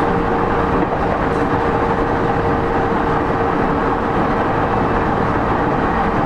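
Running noise inside a motor car of a JR East E231-0 series electric train: loud, even rumbling of wheels on rail under the floor, with a steady hum held at one pitch as the train runs at constant speed.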